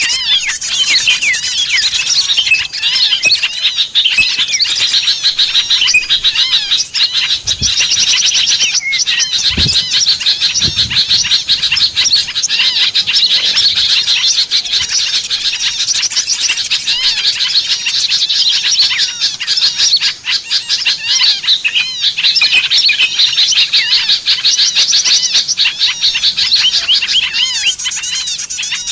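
Small birds chirping and trilling in a dense, unbroken stream of rapid high-pitched notes: the kind of call recording played to lure small birds in. A few soft low bumps come about eight to eleven seconds in.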